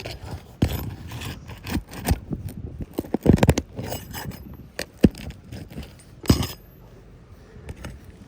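Roofing hand tools working nails loose under an asphalt shingle: irregular metal scraping and clicking with sharp knocks, a quick cluster of hits about three and a half seconds in and single knocks near five and six seconds.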